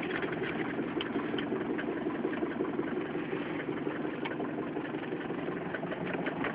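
Mercedes 190 D diesel engine idling steadily with a rapid, even clatter, a minute after an easy cold start at about 4 °C; it runs smoothly, "like a clock".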